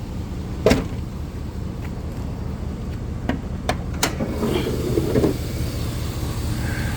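Truck's 5.3-litre V8 idling steadily through an exhaust with plain pipes in place of the catalytic converters, with several sharp clicks and knocks over it, the loudest about a second in.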